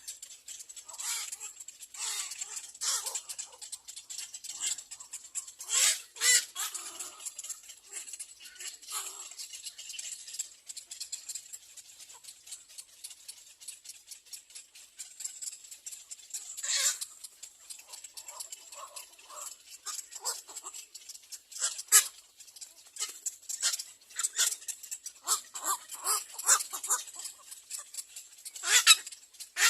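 Little egret nestlings screaming for food: short, harsh begging calls in irregular bursts. The loudest come about six seconds in, near twenty-two seconds and near the end.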